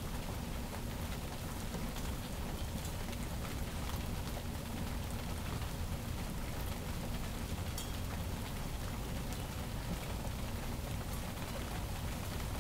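Steady rain falling during a thunderstorm, an even hiss with scattered faint drop ticks over a continuous low rumble; no thunderclap stands out.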